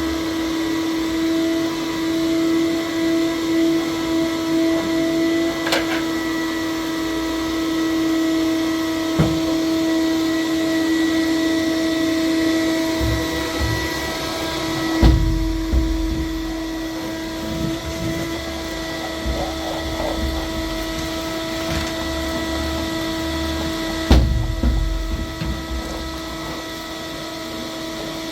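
Vacuum cleaner running steadily with a constant motor whine, with sharp knocks about halfway through and again near the end.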